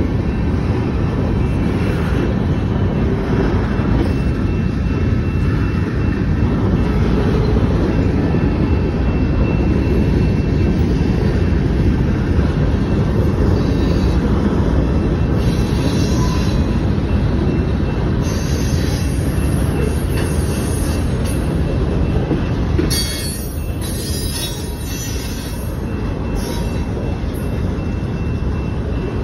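Covered hopper cars of a freight train rolling past close by: a steady rumble of wheels on the rails, with several stretches of high-pitched wheel squeal in the second half.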